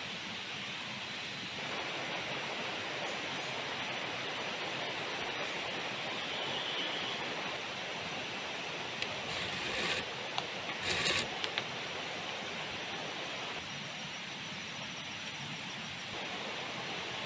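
Heavy rain falling steadily, with a thin high steady tone above it and a few brief louder sounds about ten and eleven seconds in.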